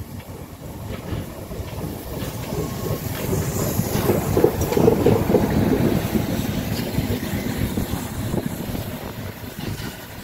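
Pt47 steam locomotive hauling a train as it passes, growing louder to a peak about halfway through and then fading away.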